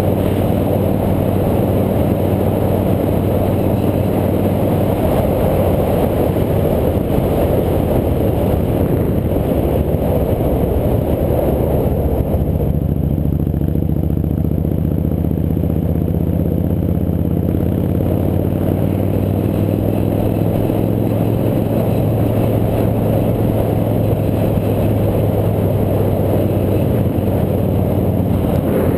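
Motorcycle engine running under way, its pitch rising slowly through the second half, with a steady rush of noise over it.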